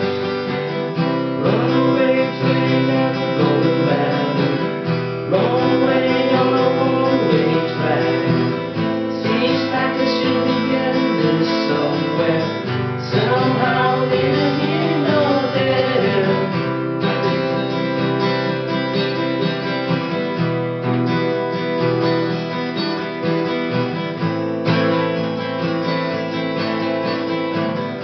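Acoustic guitar strummed steadily, with a voice singing along over it from about a second and a half in until roughly halfway through.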